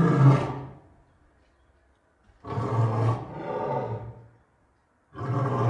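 Lion roaring in separate roars with short silences between: the end of one roar fades out in the first second, a longer two-part roar comes about halfway, and another begins near the end.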